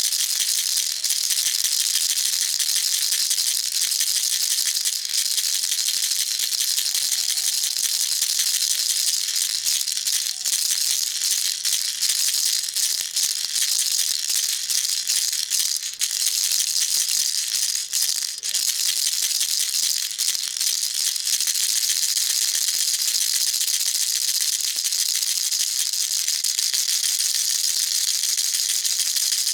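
Baby rattle shaken continuously, its beads making a steady, dense, high-pitched clatter with no pauses.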